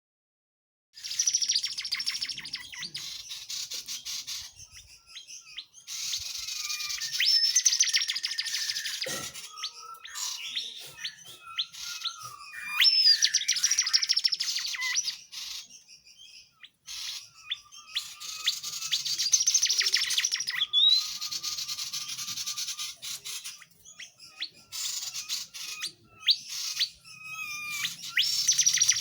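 A tledekan jati songbird singing in full voice: fast, dense, high twittering with whistled slurs, in phrases of a few seconds each broken by short pauses.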